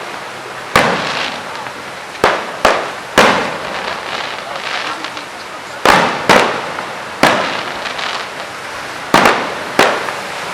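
Fireworks display: about nine sharp aerial shell bursts at uneven intervals, some in quick pairs. Each bang trails off over a fraction of a second, over a steady crackle.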